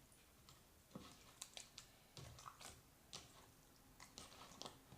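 Faint, irregular sticky clicks and squishes of clear slime being mixed and worked. The slime is stiff from too much activator.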